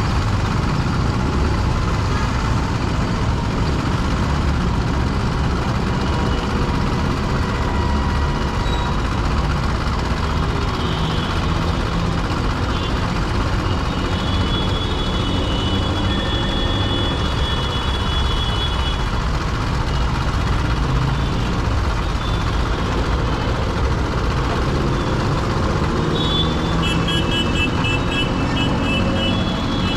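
A Honda SP125's single-cylinder engine running, with the steady rumble and noise of dense city traffic around it. Several seconds of long horn tones are heard in the middle, and a rapid run of short beeps comes near the end.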